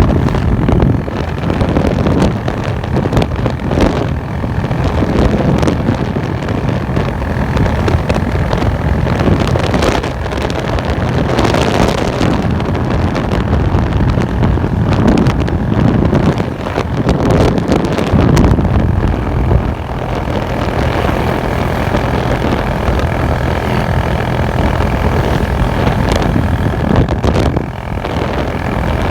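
Bajaj Boxer single-cylinder four-stroke motorcycle with a modified exhaust, running under way. The engine note surges several times in the first two-thirds and then holds steadier, with wind buffeting the microphone.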